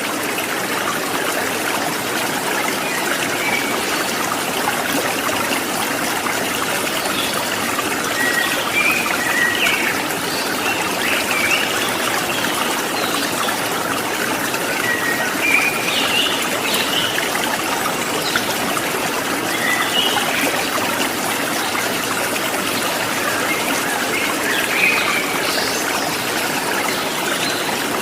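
Stream water trickling in a steady rush, with short bird chirps now and then through the middle and near the end.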